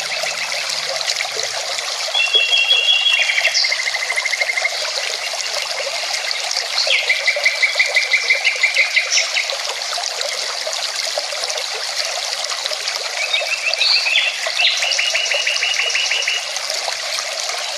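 Mountain river flowing steadily, with a songbird singing three rapid trilled phrases over it.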